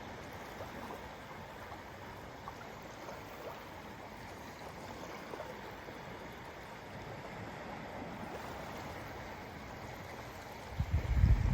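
Small lake waves lapping on the shore, a steady wash with little splashes. About ten and a half seconds in, wind gusts buffet the microphone with a loud low rumble.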